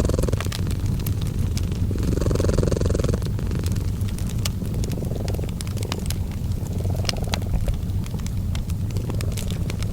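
A cat purring steadily, the rumble swelling with each breath about every two and a half seconds. Behind it, a fireplace crackles with scattered sharp pops and snaps.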